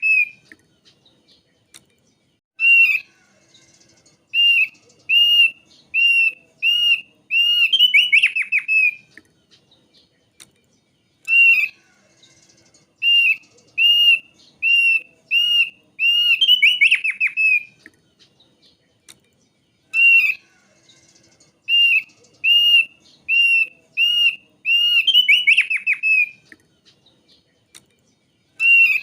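Thick-billed white-eye (opior paruh tebal) singing: phrases of clear arched whistled notes, about two a second, each phrase ending in a fast tumbling run of notes. The phrase comes three times, roughly every nine seconds.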